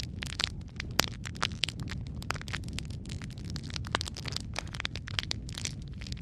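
Wood fire crackling, with many sharp irregular pops and snaps over a steady low rumble of burning.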